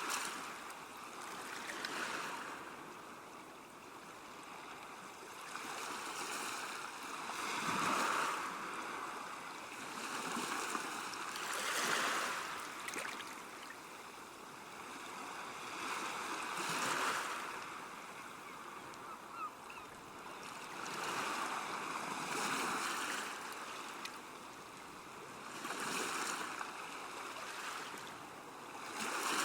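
River water washing against the bank, in swells that rise and fall every few seconds like small waves lapping.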